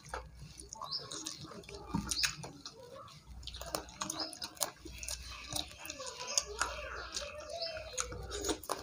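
Mouth sounds of two people eating chicken curry and rice with their hands: chewing, lip-smacking and sucking curry off their fingers, heard as many small irregular clicks and smacks.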